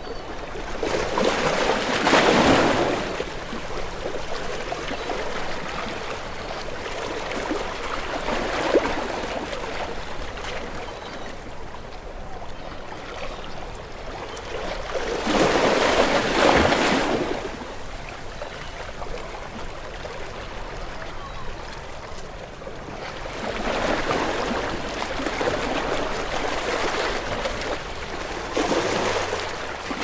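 Ocean waves breaking and washing onto a shore, a steady rush of water that swells into a few louder crashes several seconds apart.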